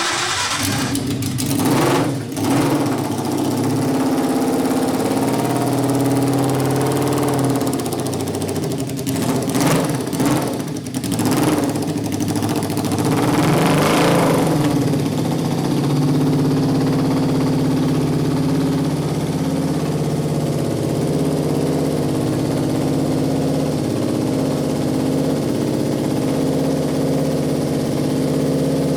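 Home-built V8 motorcycle engine, a copy of the Morbidelli V8, running. It is blipped in several short revs through the first half, then settles to a steady idle.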